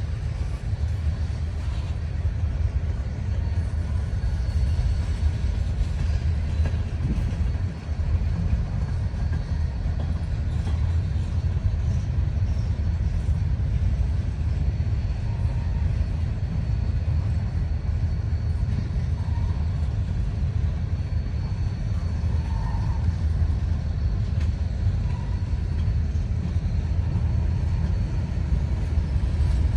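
Freight train rolling past with a steady low rumble that holds at an even level throughout.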